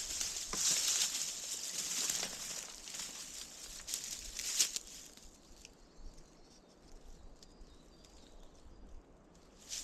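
Dry leaf litter and twigs rustling and crackling as dead undergrowth is cleared. The rustling is dense for the first few seconds, with a few sharper cracks around four to five seconds in. It then thins to faint scattered clicks before picking up again at the very end.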